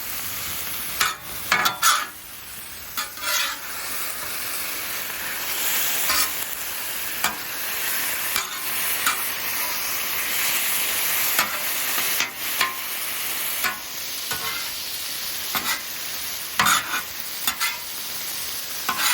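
Chicken and vegetables sizzling on a Blackstone flat-top griddle, a steady hiss, with short scrapes and clacks of a spatula on the griddle every second or so as the food is mixed.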